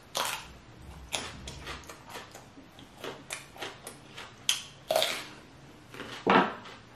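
A person eating: crisp bites into a raw green vegetable and chewing, heard as a string of separate crunches and wet mouth sounds with short pauses between them.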